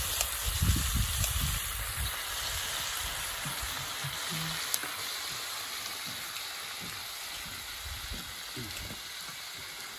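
Pork belly sizzling on a hot iron griddle, a steady hiss, with a few low thuds in the first two seconds.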